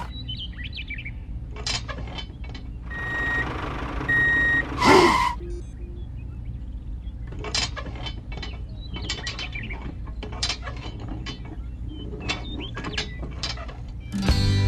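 Low steady engine hum under a run of irregular mechanical clicks and knocks, with two short beeps about three and four seconds in and a brief swooping tone just after.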